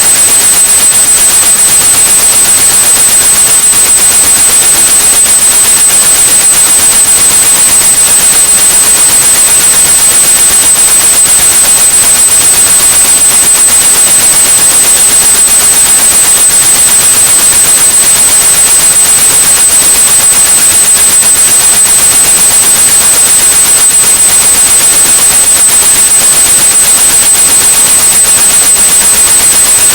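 Steady white noise with a continuous high-pitched pure tone at about 8100 Hz laid over it, a synthetic masking sound meant to cover tinnitus.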